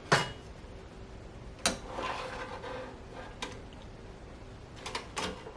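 A few sharp clicks and knocks with a stretch of rubbing between them: a small toaster oven's door and metal rack being handled as toasted muffins are checked.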